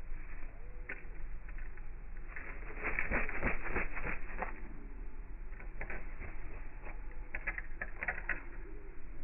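Slowed-down audio of birds at a backyard feeder: two clusters of rapid taps and clicks, one about three seconds in and another from about six to eight seconds, over a steady low hum.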